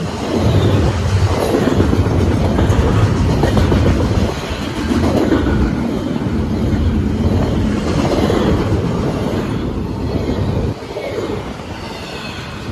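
Freight train passing close at speed: a loud, continuous rumble of wheels on rail with clacking over the joints, easing off a little near the end.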